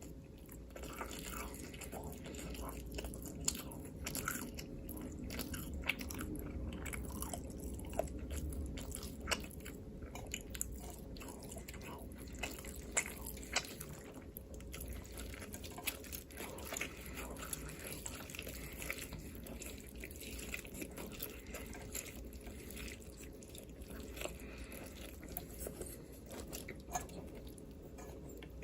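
Close-miked eating: irregular wet clicks and crunches of biting and chewing, over a faint steady hum.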